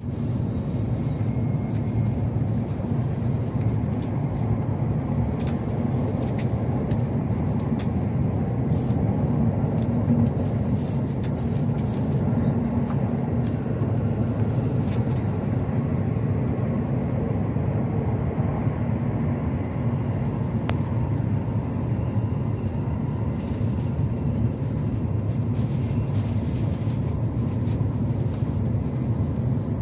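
Steady low rumble of a Joetsu Shinkansen train running at speed, heard inside the passenger cabin.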